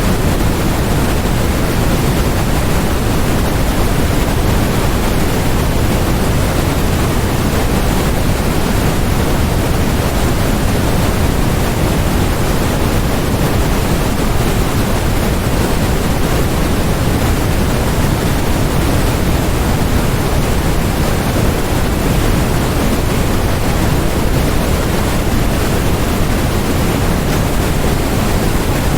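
Continuous generated white noise: a steady, even hiss that does not change, fuller in the low range.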